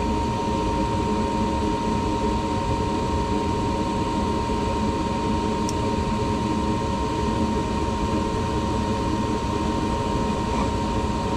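Gas furnace running with its newly installed draft inducer motor spinning at speed: a smooth, steady whir with a constant high tone and no screech.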